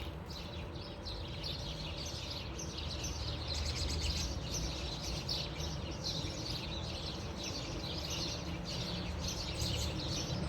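Birds chirping continuously in quick repeated calls, over a steady low rumble.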